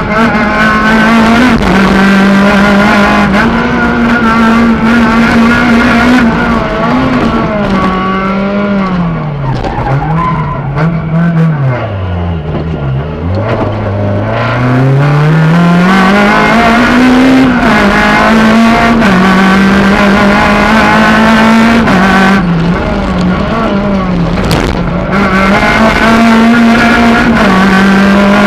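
Suzuki Swift GTi rally car's 1.3-litre four-cylinder engine heard from inside the cabin, held at high revs with quick gear changes. About eight seconds in, the revs drop away in steps to a low pitch, then climb back up through the gears and stay high again.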